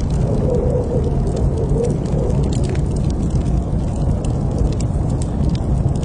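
Wood fire burning in a fireplace: a steady low rumble of flames with sharp, irregular crackles and pops scattered throughout.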